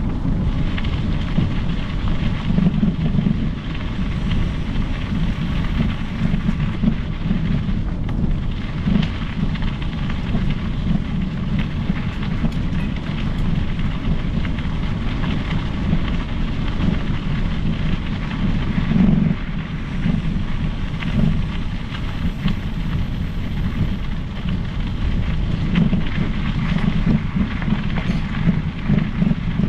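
Steady, gusting wind buffeting the microphone of a camera riding on a moving mountain bike, a low rumble with a hiss over it.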